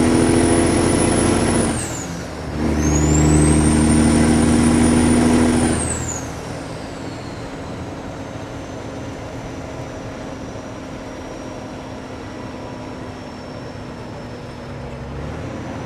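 Kenworth W900 diesel engine pulling hard through loud straight pipes, with a high-pitched turbo whistle rising over it. About two seconds in it drops briefly at a gear shift, then pulls again, and about six seconds in it backs off to a quieter steady run as the whistle winds down.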